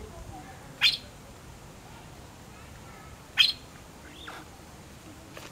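A bird giving short, sharp calls twice, about two and a half seconds apart, with fainter falling whistles between them.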